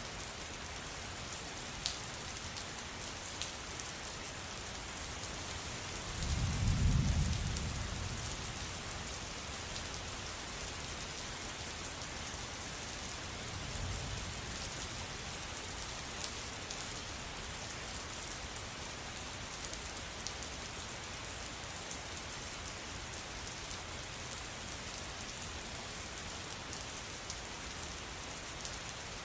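Steady rain falling, an even hiss with scattered drop ticks. A low rumble of thunder swells about six seconds in and fades over two seconds, with a fainter rumble around fourteen seconds.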